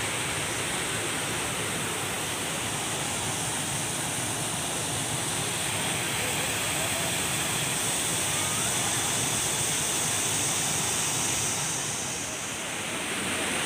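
Steady rush of falling water from a waterfall, dipping slightly in level briefly near the end.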